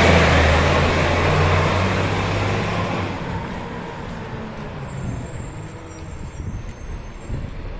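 A garbage truck's engine and tyres loud as it passes close, then fading steadily as it drives away over about four seconds, leaving a low, uneven traffic rumble.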